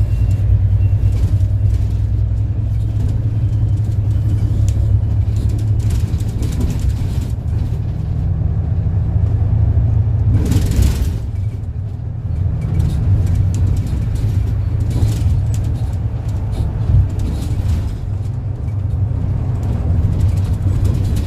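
City bus running along the road, heard from inside: a steady low engine and road rumble, with a short hiss about ten seconds in.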